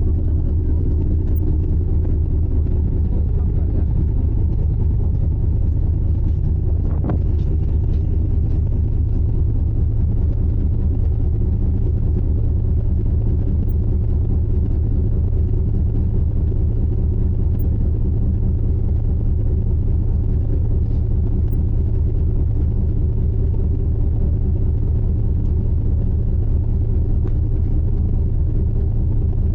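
Icebreaker's engine running steadily, a deep unchanging drone felt on board.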